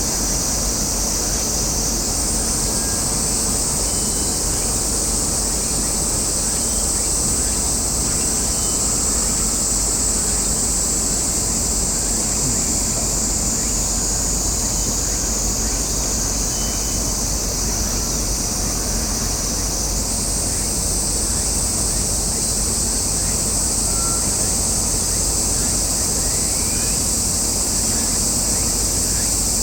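Cicadas droning steadily in a high, dense chorus that shifts up in pitch twice, over a low steady rumble.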